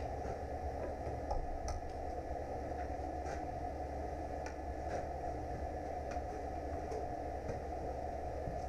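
Steady low hum with faint, irregular light clicks and taps scattered through it.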